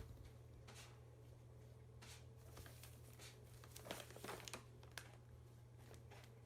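Near silence: room tone with a low hum and faint scattered rustles and small clicks, a little busier about four seconds in.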